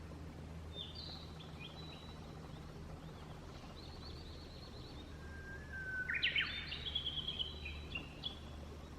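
Small songbirds singing at a misty lakeside: short high phrases about a second in, a thin trill around four seconds, then a louder, more complex song from about six to eight seconds in, over a steady low background hum.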